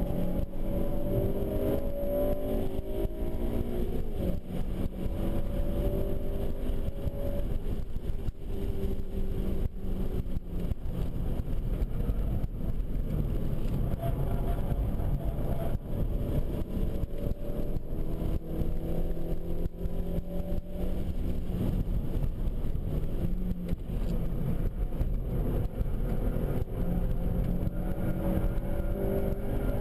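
2007 Honda Civic Si's 2.0-litre four-cylinder engine heard from inside the cabin while lapping a track at speed. Its pitch climbs several times under hard acceleration and drops between climbs, over steady road and wind rumble.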